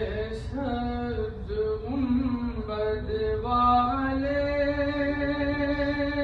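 A solo voice chanting unaccompanied in a string of drawn-out notes that step up and down in pitch, the last note held for nearly three seconds.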